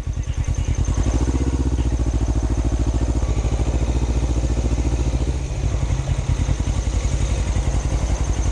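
Motorcycle engine running at low revs, a steady, even pulsing beat.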